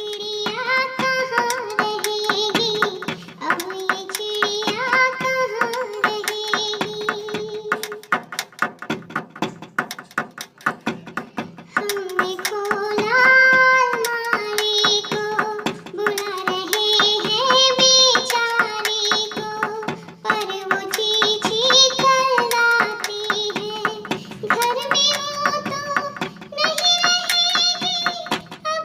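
Children singing a Hindi poem in chorus over a steady percussive beat of sharp strokes. The singing pauses for a few seconds around a third of the way in while the beat carries on, then resumes.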